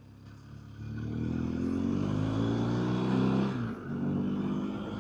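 BMW R1250GSA's boxer-twin engine accelerating out of a hairpin: it rises from a low, quiet run about a second in, climbs in pitch, and drops briefly on an upshift about three and a half seconds in before pulling again.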